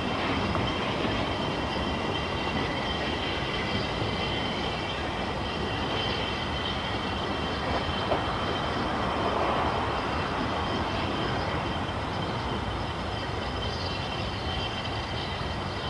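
Narrow-gauge train running steadily along the rails, with a high, thin wheel squeal throughout and a single small knock about halfway.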